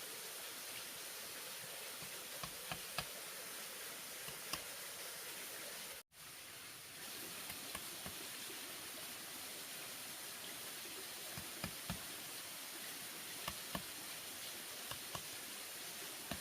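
Scattered light taps and knocks, often two or three close together, over a steady hiss of background noise. The sound cuts out completely for a moment about six seconds in.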